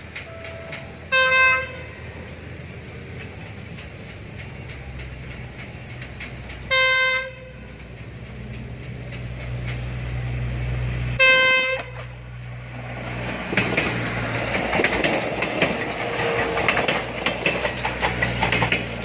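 PT INKA-built diesel train sounding its horn three times, short blasts about five seconds apart, as its engine hum grows on the approach. From about two-thirds of the way in, the train passes close by with a dense clatter of wheels over the rail joints and its engine running.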